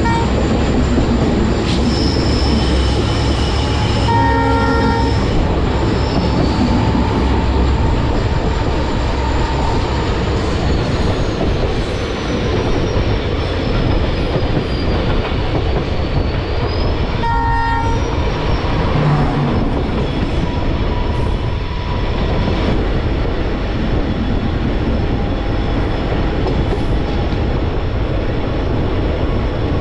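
Passenger train running, with a steady rumble of wheels on the track. A train horn gives two short blasts, about four seconds in and again about seventeen seconds in. Between them a thin high whine slides slowly down in pitch.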